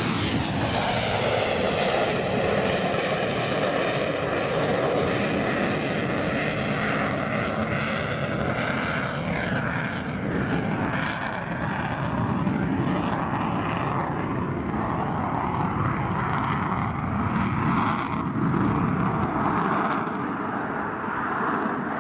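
Military jet aircraft engine noise: a jet passes close with its pitch dropping sharply at the start, then its engine noise carries on steadily.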